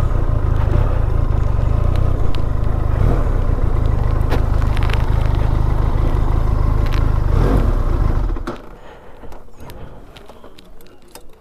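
Motorcycle engine running with a steady low rumble, then switched off about eight seconds in, leaving only a few small clicks and clatter.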